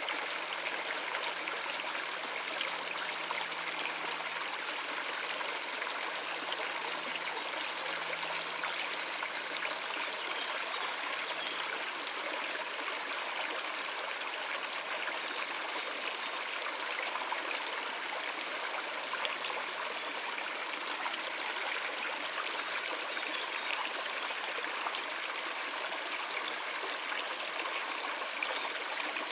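Shallow stream running over rocks: a steady, even rush of water with trickling.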